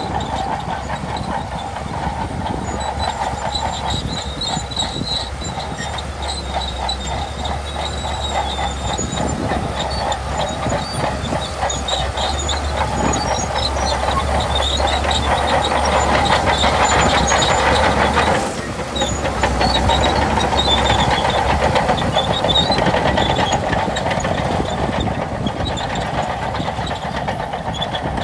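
Shantui DH17C2 crawler bulldozer running under load while pushing sand, its diesel engine drone mixed with the clatter of its steel tracks. The sound grows louder past the middle, with a brief break about two-thirds of the way in.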